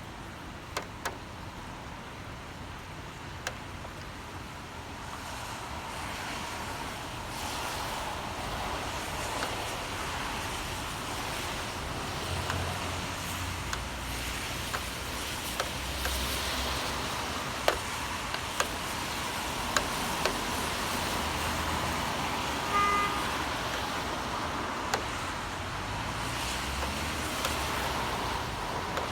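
Steady rain over city traffic: cars pass on a wet street, and the noise swells as they go by, with low rumbles. Sharp ticks are scattered through it, and a brief short tone sounds a little past two thirds of the way in.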